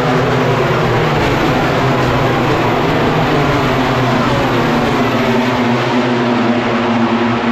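Racing motorcycle engines running loud and continuous, their pitch drifting slowly up and down.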